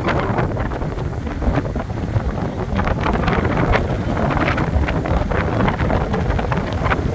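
Strong wind buffeting the microphone over the wash of sea waves on the shore, a steady rough rush with no let-up.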